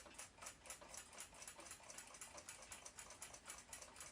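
Faint, even ticking of the Junghans W146 ship's clock movement's platform escapement, about five ticks a second, as the movement runs.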